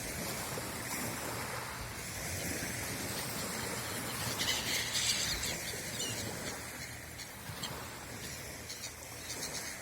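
Small sea waves washing and splashing ashore, stirred up by a passing yacht's wake, with a louder hissing wash about four and a half seconds in.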